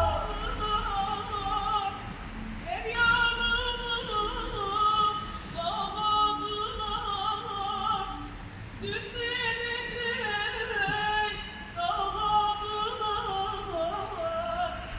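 A street beggar's solo singing voice, holding long notes with a strong vibrato in four phrases with short breaths between them.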